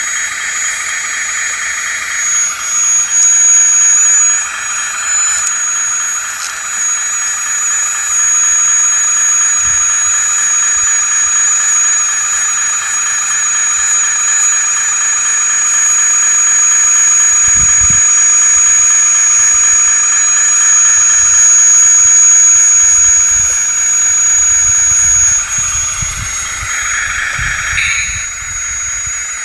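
Electric hydraulic pump and motors of a 1/16 scale RC wheeled excavator running: a steady high-pitched whine over a buzzing pump note, which shifts in pitch about two seconds in and again near the end.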